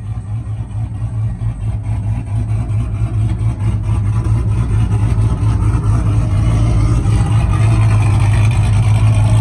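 A vehicle engine running with a steady low drone from its exhaust, growing gradually louder.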